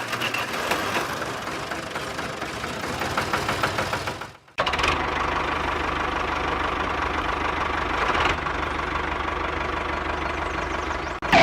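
Engine running with a rough, knocking rumble, in two stretches broken by a short gap about four and a half seconds in; the second stretch runs steadier.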